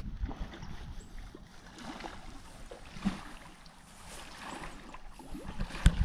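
Kayak paddling on a river: paddle blades dipping and dripping in the water, with small knocks and one sharp knock near the end.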